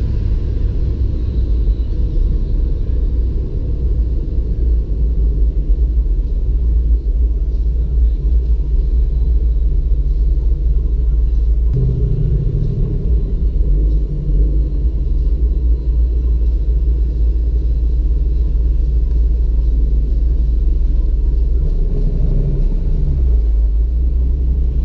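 Steady low rumble of a car being driven slowly, heard from inside the cabin: engine and road noise, swelling briefly about halfway through and again near the end.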